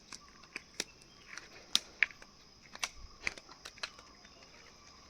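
Steady high-pitched insect drone, with irregular sharp clicks and snaps scattered over it.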